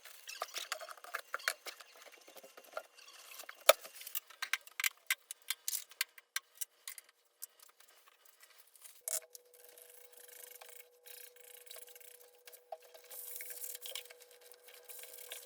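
A run of small clicks and taps from objects being handled, the sharpest a little under four seconds in, then softer rubbing sounds over a faint steady hum from about nine seconds in.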